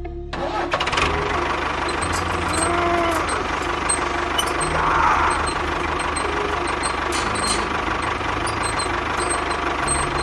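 Engine-like running of the mini construction vehicles, with a steady whine and scattered clicks.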